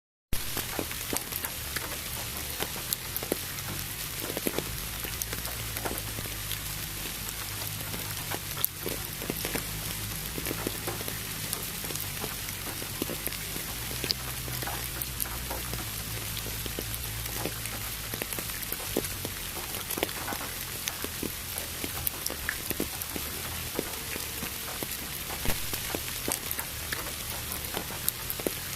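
Steady rain mixed with pink noise, with scattered sharp drop ticks over a steady low hum. It cuts in abruptly just after the start.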